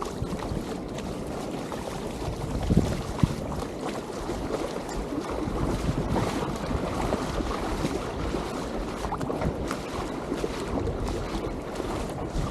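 Wind buffeting the microphone over a steady rushing like surf, with two short knocks about three seconds in.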